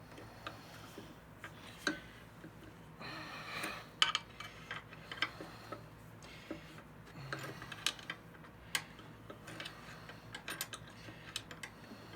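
Hand tool clicking and tapping against the metal of a thickness planer's cutterhead while blade screws are tightened: irregular light metallic clicks, with a short scraping sound about three seconds in.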